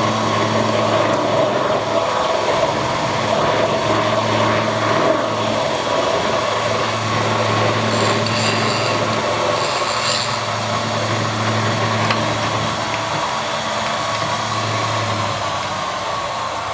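An electric metalworking machine running steadily under load, a low hum with a busy whirring band above it, with no break until it fades just after the end.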